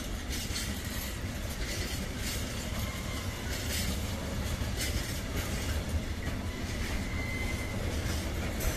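Container freight train rolling past: a steady rumble of wagon wheels on the rails, with irregular clacks as the wheels cross rail joints and a faint thin wheel squeal near the end.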